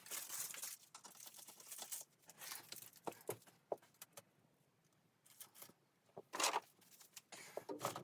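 Irregular rustling, crinkling and tearing sounds of something being handled, with scattered sharp clicks and a quieter lull partway through.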